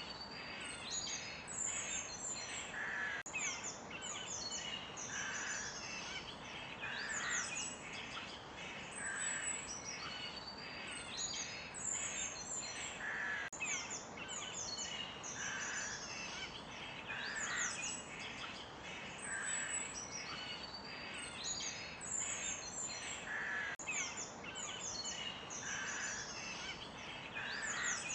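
Forest birds chirping and singing, many short calls and quick pitch sweeps overlapping, over a steady soft hiss of background ambience.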